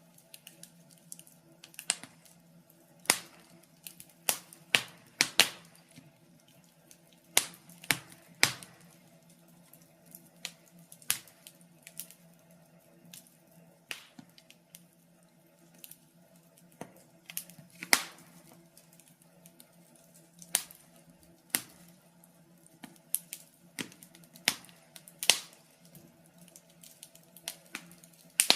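Wood fire in a fireplace crackling: irregular sharp pops and snaps, one or two a second, over a faint steady hum.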